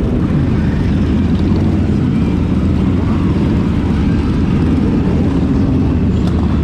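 Motorcycles on the move: a loud, steady, low rumble of engines and road noise with no breaks.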